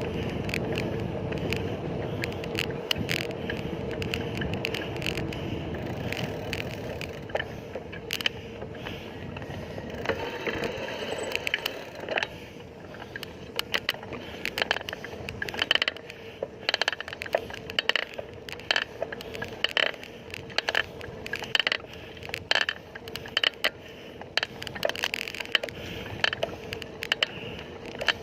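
Bicycle on the move: steady tyre-and-road rumble, then from about halfway many irregular clicks and rattles from the bike.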